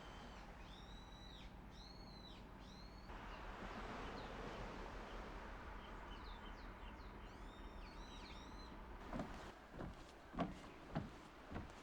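Bird calls: quick runs of repeated arched whistled notes, at the start and again in the second half, over a steady outdoor background hiss. Near the end, about five sharp knocks.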